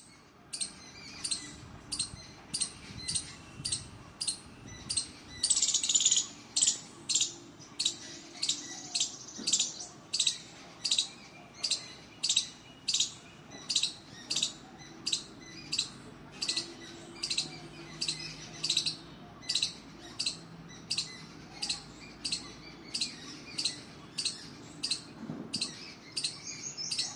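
Squirrel calling from a tree: sharp, high-pitched chirps repeated steadily about twice a second, with a louder, quicker run of chirps around six seconds in.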